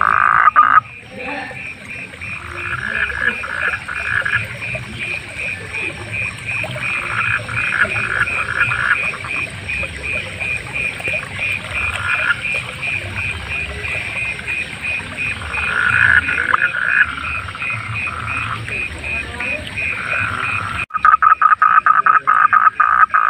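Frogs croaking in repeated bouts, with a loud run of rapid calls near the end, over a steady high pulsing call of about five pulses a second.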